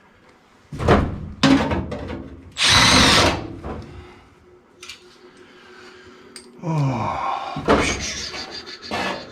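Cordless power driver running in several short bursts, backing screws out of the furnace's sheet-metal burner box.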